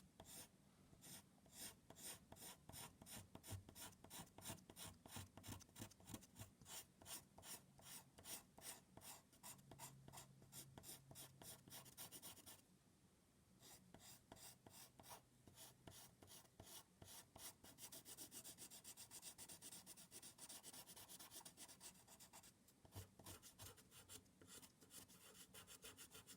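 Faint scratching of quick, repeated drawing strokes on a surface, about three to four a second, with a short pause about halfway through.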